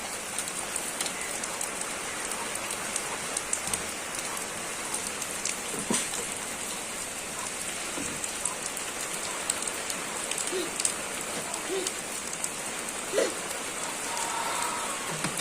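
Steady rain falling: an even hiss dotted with many small drop ticks, with a few sharper ticks now and then.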